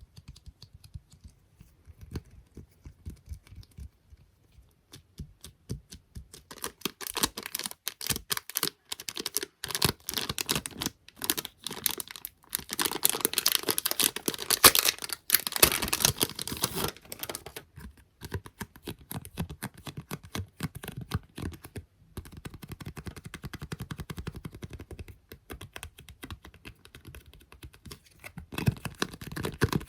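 Rapid tapping on small objects, many quick taps a second, thickest and loudest from about a quarter of the way in to just past the middle.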